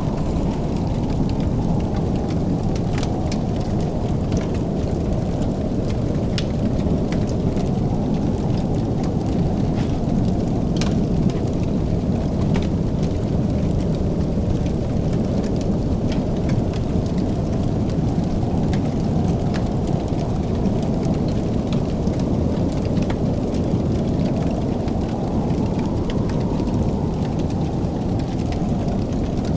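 Wood fire burning with a steady low roar and scattered sharp crackles and pops.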